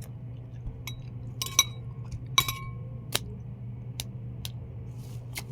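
Balot egg being tapped against a hard dish to crack its shell: about eight sharp taps and clinks, two of them ringing briefly, over a steady low hum.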